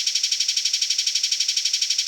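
Eurasian tree sparrow giving its agitated fighting call: a fast, dense, steady chatter of high-pitched notes, about nine a second.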